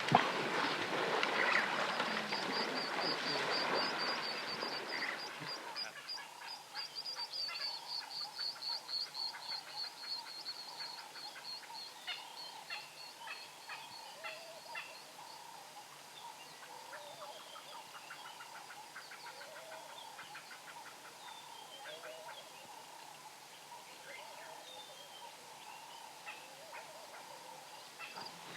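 Wild animal calls in rapid series: a fast, high, even trill over the first half, with many short chattering calls and softer chirps. A louder rushing noise fills the first few seconds.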